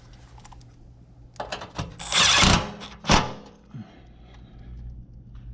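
Handling noises while working on an air handler: a few light clicks, a brief loud scraping rush about two seconds in, then a sharp knock about a second later, over a faint steady low hum.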